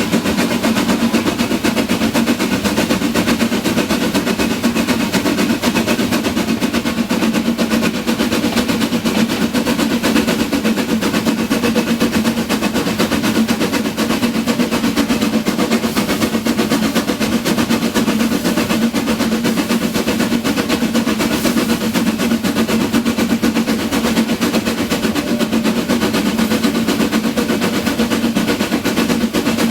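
Narrow-gauge train running: a rapid, steady clatter over a constant low hum that does not change.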